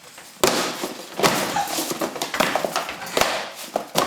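A flurry of thumps and shrill shrieks in quick succession: a scramble to stomp on a cockroach.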